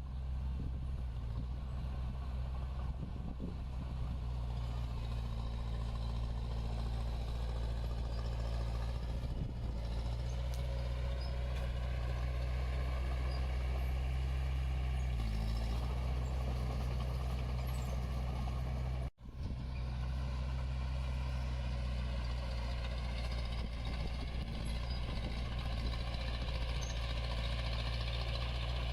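Diesel engine of heavy earthmoving equipment running steadily, a low even hum with a slight change in pitch around halfway. The sound drops out for an instant about two-thirds of the way through.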